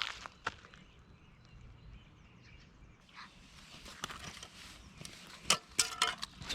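Footsteps crunching on the forest floor, with scattered twig snaps: a couple of clicks at the start, then a cluster of louder cracks near the end.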